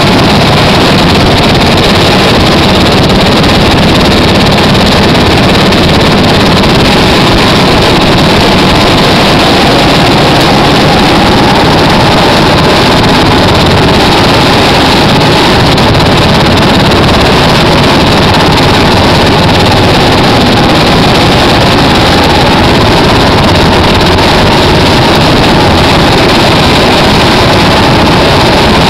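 Military helicopter's engine and rotor noise, loud and steady with no change in pitch or level.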